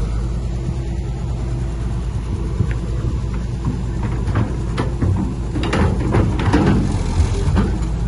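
Heavy earthmoving machine's diesel engine running steadily, with a series of sharp clanks and scrapes from about halfway through.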